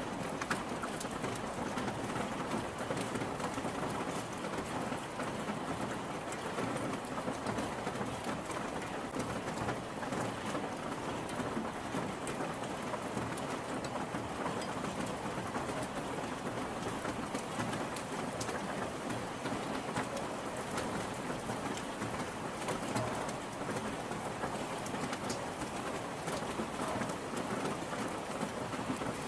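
Steady rainfall: an even, continuous patter of rain.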